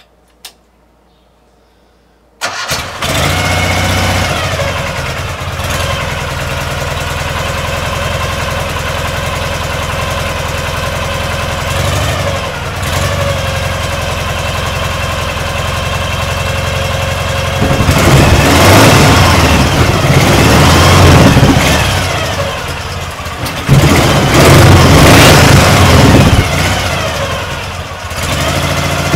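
Motorcycle engine starting suddenly about two seconds in and settling to a steady idle with a few short blips of throttle, then revved repeatedly and harder through the second half, its pitch rising and falling with each rev.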